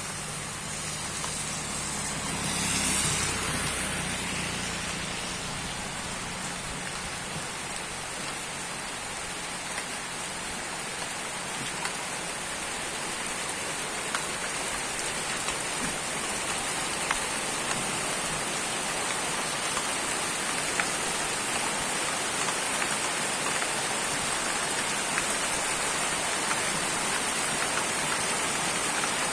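Heavy rain pouring steadily, with scattered drips ticking. A low hum in the first few seconds fades out around a brief louder swell about three seconds in.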